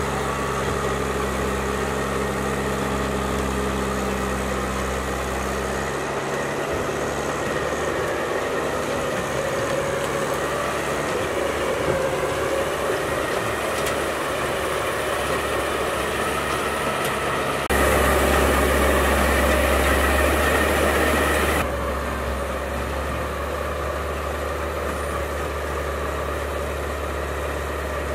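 A 240 hp tractor's engine running steadily, driving a PTO-powered slow-drum grinder shredding roots and stumps. The hum changes abruptly about six seconds in, and the sound is louder for about four seconds past the middle.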